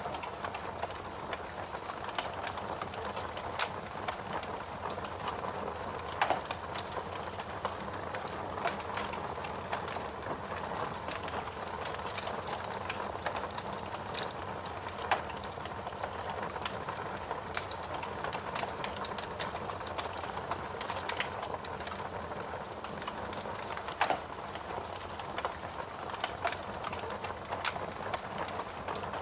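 Log fire burning in a fireplace: a steady hiss with frequent small crackles and pops, and three louder snaps spread through.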